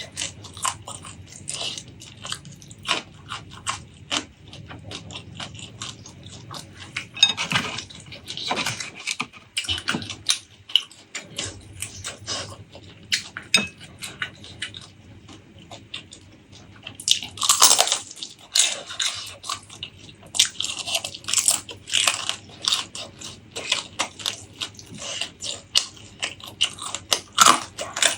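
Close-miked eating: a person biting and chewing food, with irregular crunching and wet clicking throughout and a few louder bites now and then.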